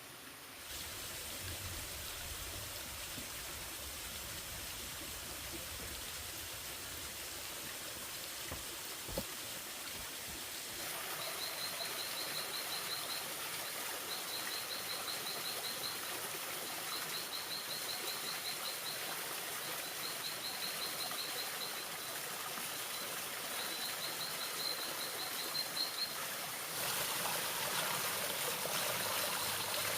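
Steady rushing of a flowing stream. From about a third of the way in, a high pulsed trill comes in short repeated bursts over the water.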